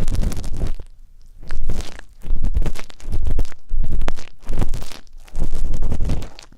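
Ear-cleaning ASMR: an ear pick scraping and rubbing in an ear, in crunchy, rustling strokes of half a second to a second each, with short pauses about a second in and near the end.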